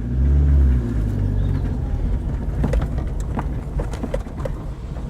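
Daihatsu Terios engine pulling off-road. The revs swell loudly in the first second, then settle into a steady low drone, with scattered knocks and rattles throughout.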